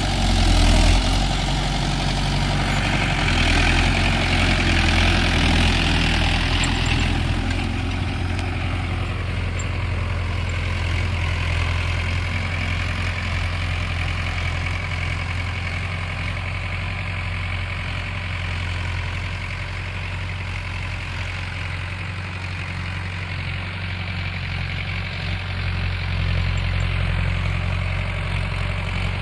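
Mahindra Yuvo 575 DI tractor's diesel engine running steadily at low revs. A louder hiss lies over it for about the first seven seconds.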